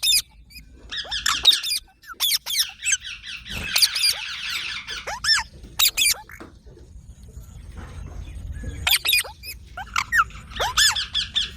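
Green parakeets squeaking and chirping while one feeds the others beak to beak, typical of begging during feeding. The calls are short and high, in clusters, with a denser, buzzy run of rapid squeaks about four seconds in.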